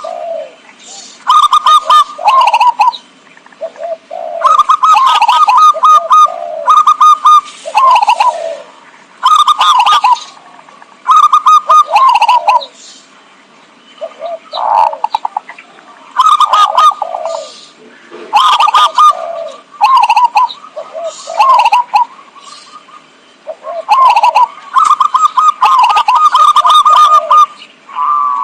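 Zebra dove cooing: phrases of quick, staccato notes, repeated every second or two.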